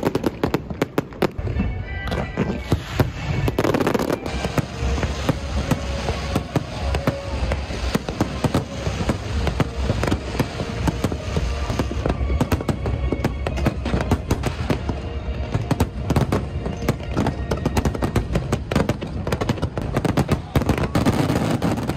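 Aerial fireworks display: a dense, continuous run of shells bursting and crackling, several bangs a second, with music playing alongside.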